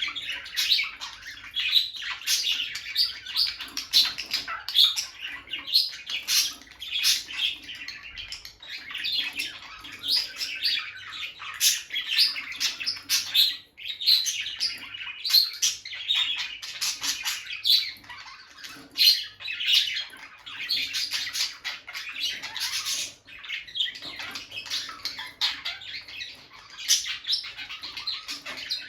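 Peach-faced lovebirds chirping and squawking continuously in rapid, high-pitched chatter.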